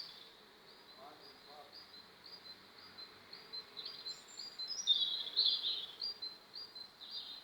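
Budgerigars chirping: a steady series of short high chirps about twice a second, with a louder burst of warbling chatter about five seconds in.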